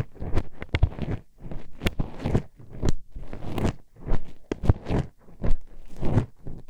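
A hairpin poked and scraped inside an ear-shaped microphone at close range: irregular sharp clacks and short scratchy scrapes, several a second.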